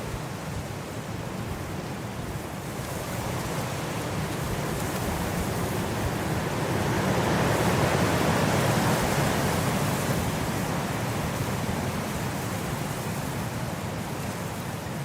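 Blizzard wind blowing as a steady rushing noise, swelling into a stronger gust about halfway through and easing off again.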